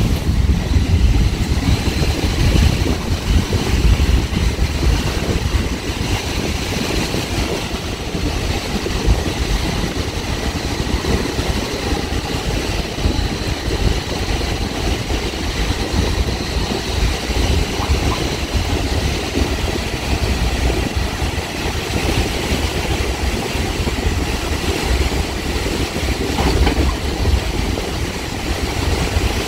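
Caltrain gallery cab car rolling along at speed: a steady low rumble of wheels on rail and the car's running noise, heard from inside the cab.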